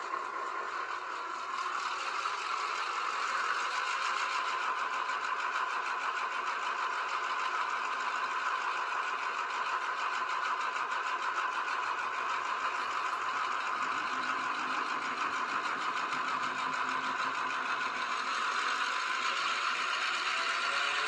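Model train running steadily along the layout track, giving an even mechanical running hum.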